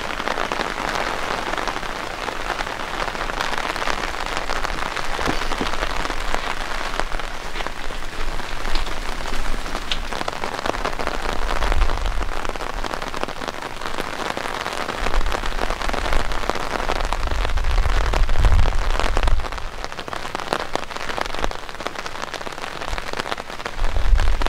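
Steady rain falling on the ground, leaves and surfaces, with several low rumbles breaking in around the middle and near the end.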